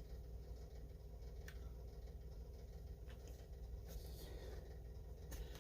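Faint clicks and taps of hands working on a chainsaw, heard over a steady low hum.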